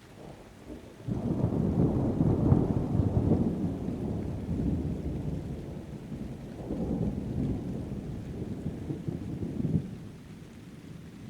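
Thunder rolling: a deep rumble starts suddenly about a second in and is loudest over the next couple of seconds. It swells again about halfway through and dies away near the end, with rain falling underneath.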